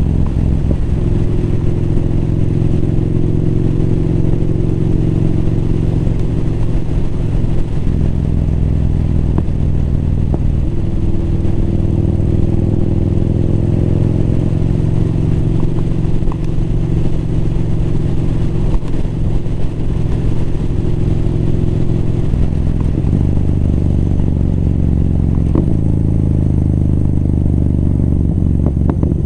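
Motorcycle engine running under way on a ride, its pitch stepping up and down several times as the throttle and gears change, with a few faint clicks.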